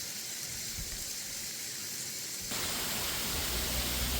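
Steady hiss of falling, rushing water from a rainforest waterfall. The sound changes abruptly about two and a half seconds in, and a low rumble joins near the end.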